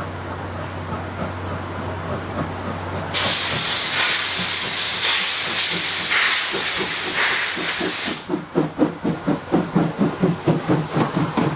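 Japanese C11-class steam tank locomotive C11 123 letting off a loud hiss of steam for about five seconds. When the hiss stops, its exhaust beats come in strongly, about three chuffs a second.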